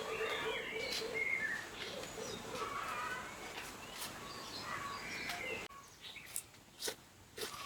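Small birds chirping and calling outdoors. Near the end the birdsong stops abruptly and a few sharp knocks or clicks follow.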